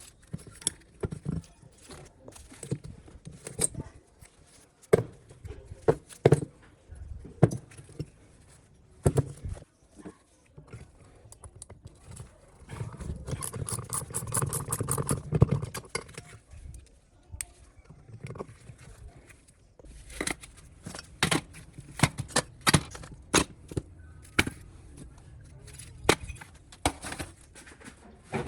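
Hand tools and metal parts of a mini motorcycle clinking and knocking during workshop restoration work, with a stretch of rapid, even clicking about halfway through.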